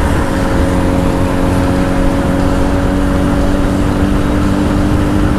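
Honda CBR1000's inline-four engine through a Two Brothers aftermarket exhaust, running at a steady cruise under wind noise on the helmet mic. The engine note drops just after the start, then holds steady.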